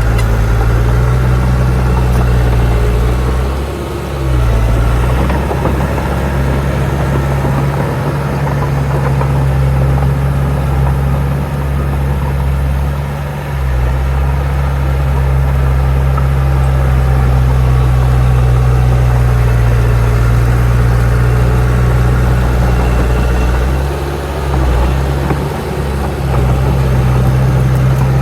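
Heavy diesel engine of earthmoving machinery running steadily with a deep, even drone. Its pitch and loudness dip briefly three times: about 4 s in, about 13 s in, and around 24–25 s.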